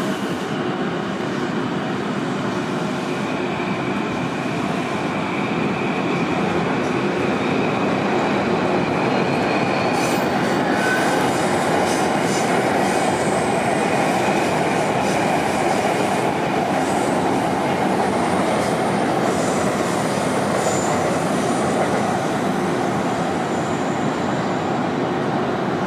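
Electric commuter trains running past, a steady rumble of wheels on rails with high wheel squeal. A faint rising whine runs through the first half, and from about ten seconds in there are sharp clicks and high squeals.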